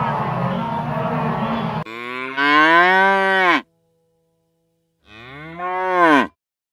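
A cow mooing twice, each moo rising and then falling in pitch, with a second of silence between them. Before the first moo, a busy noisy background cuts off abruptly about two seconds in.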